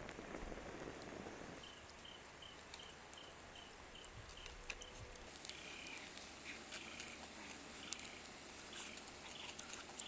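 Faint high-pitched bird calls: a run of about ten short notes, about three a second, then looser chirps later on, over light scattered clicks and crackles.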